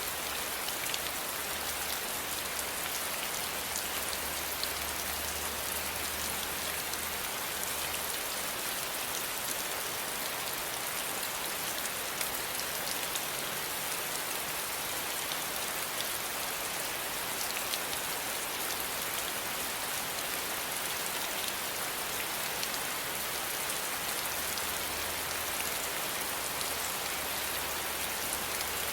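Steady rain falling, an even hiss with many fine drop patters. A faint low rumble comes and goes underneath.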